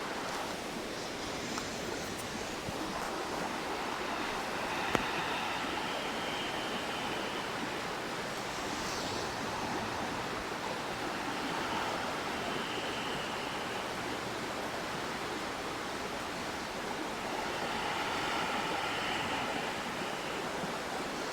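Steady rushing of a flowing river, an even wash of water noise, with one brief faint click about five seconds in.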